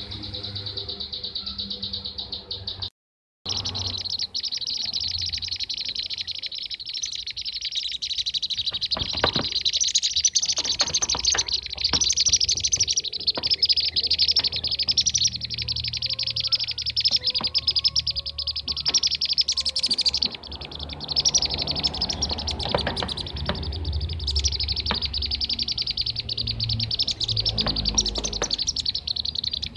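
Kirik-kirik (bee-eater) lure recording: a dense, continuous chorus of rapid, high chirping calls. There is a brief gap of silence about three seconds in.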